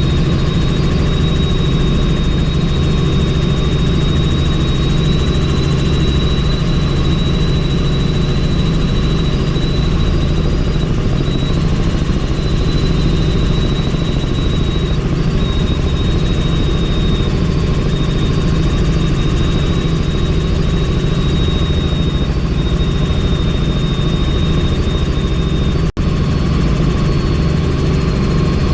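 Helicopter in flight, heard from inside the doors-off cabin: a steady, loud drone with a thin high turbine whine over it. The sound drops out for an instant near the end.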